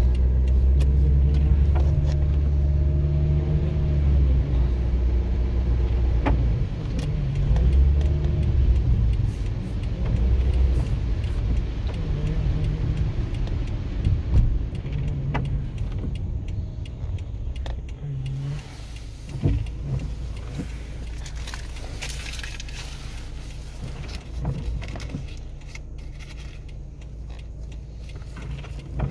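A car's engine and road rumble heard from inside the cabin: a steady low drone, heavier in the first ten seconds, with scattered small clicks and a few short knocks.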